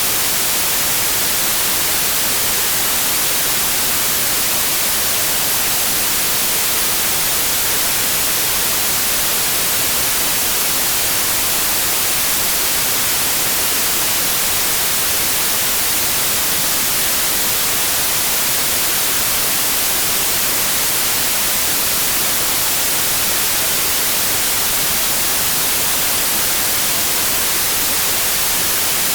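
Continuous white noise: a steady, even hiss, brightest in the high frequencies, that never changes.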